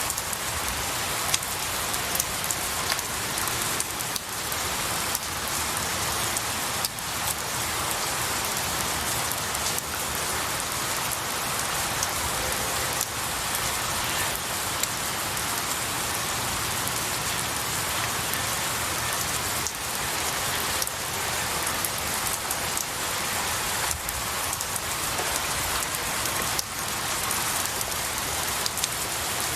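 Steady rain falling on pine needles and trees, with a dense even patter and scattered louder individual drops.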